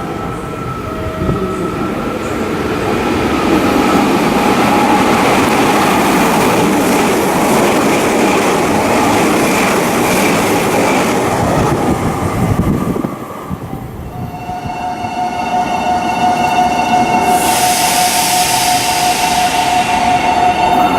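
Meitetsu 2000 series μSKY eight-car train passing through a station at speed: a rush of wheel and running noise builds and then cuts off about thirteen seconds in. A steady whine of several tones follows.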